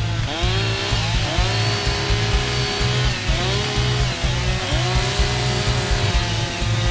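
Chainsaw revving up again and again, its pitch rising and levelling off each time, over background music with a steady beat.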